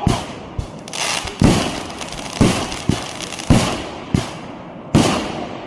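Fireworks going off in quick succession: a loud bang every half second or so, with crackling between the bangs.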